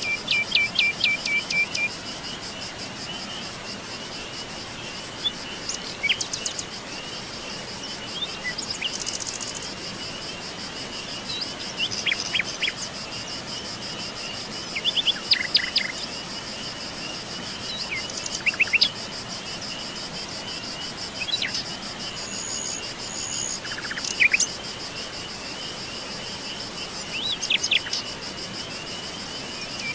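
Songbirds calling and singing in short, separate phrases, some as quick runs of repeated notes, over a steady high-pitched trilling of insects that does not let up.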